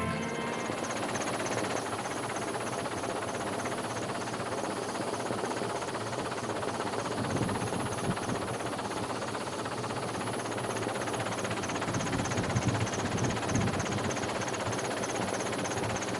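Steady mechanical noise with a faint, regular high ticking about two to three times a second, and a few heavier low thuds in the second half.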